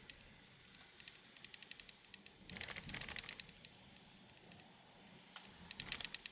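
Raindrops ticking on a car in light, irregular taps, with two denser spells of noise about three seconds apart.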